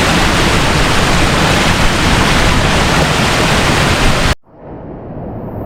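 Steady roar of a waterfall and fast-flowing river close by. About four seconds in it cuts off abruptly, then comes back much quieter and duller and slowly builds.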